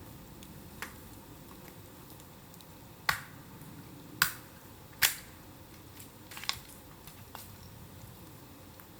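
Bamboo burning in a bonfire, popping and cracking: about six sharp snaps at irregular intervals, the loudest two a little after the middle.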